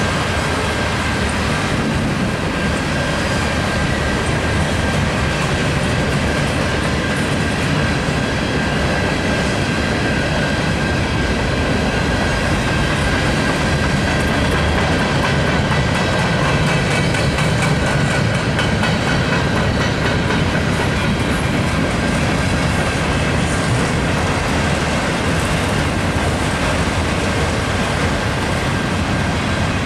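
Freight train cars rolling past: the steady rumble and clatter of steel wheels on the rails, with a thin, steady high tone above it.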